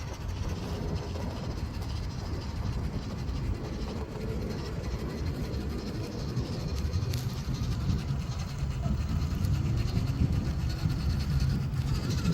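A tiny RC 6x6 truck's small electric motor and gearbox whir as it drives, the whine rising and falling in pitch with the throttle over a low rumble.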